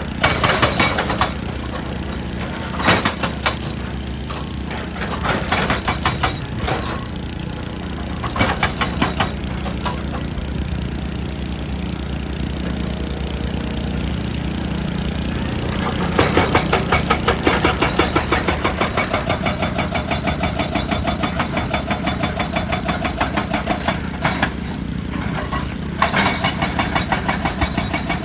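A JCB excavator's diesel engine runs steadily under load while its hydraulic rock breaker hammers rock in rapid, evenly spaced blows. The hammering comes in short bursts early on, then in a long run from about halfway, pauses briefly, and starts again near the end.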